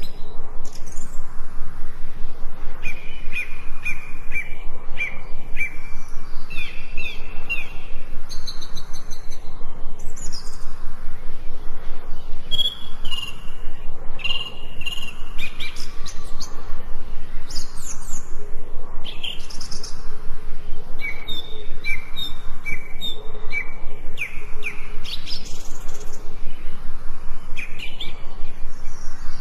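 Several forest birds singing and chirping, with quick series of repeated notes and short rising and falling whistles overlapping throughout, over a steady background hiss.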